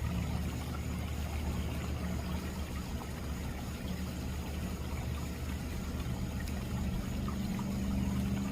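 Backyard pond waterfall: water pouring and splashing steadily, with a low hum underneath.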